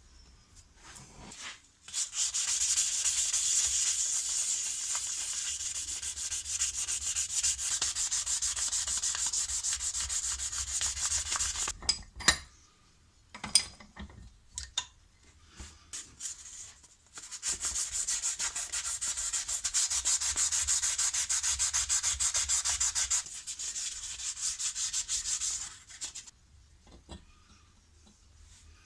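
Abrasive sanding on a steel spanner, heard as two long spells of fast, even scratching strokes. Short clicks and knocks fall in the pause between the spells.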